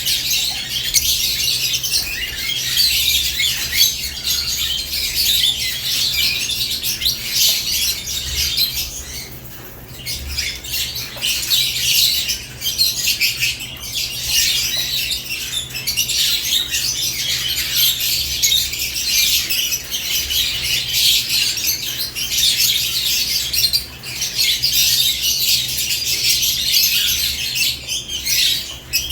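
Lovebirds chattering continuously in a cage, a dense high-pitched mix of chirps and squawks that dips briefly about nine seconds in and again near twenty-four seconds, with a steady low hum underneath.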